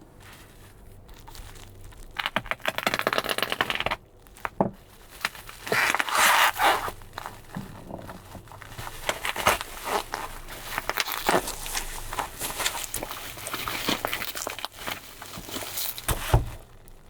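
Plastic bubble wrap packaging being handled and pulled open: crinkling, crackling and tearing with many small clicks. The loudest spells come about two seconds in and again around six seconds, and a soft thump follows near the end.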